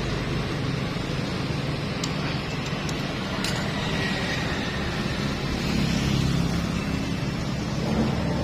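Steady engine and road-traffic noise with a low hum that swells a little around the middle, broken by a few light clicks.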